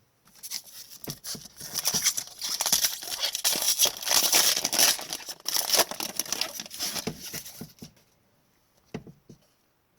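Foil card pack wrapper being torn open and crinkled for about eight seconds, loudest midway, followed by a couple of faint taps.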